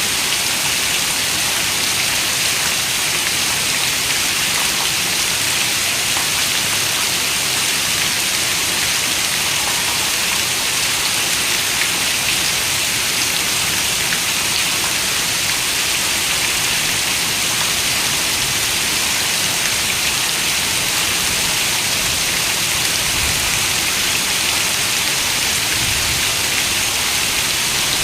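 Steady rain falling, an even hiss with fine drops pattering on a surface.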